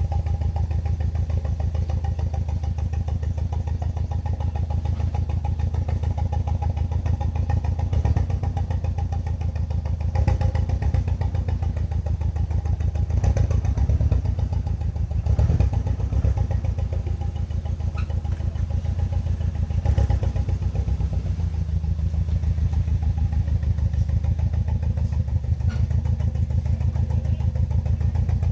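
BMW E46 318i's N42B20 2.0-litre four-cylinder engine running at idle with a misfire, a steady pulsing beat. A few brief louder surges break in along the way.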